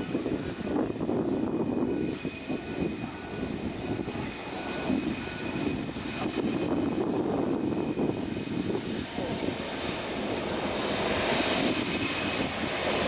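Jet engines of an Airbus A380 running: a steady engine noise that grows louder and brighter over the last few seconds.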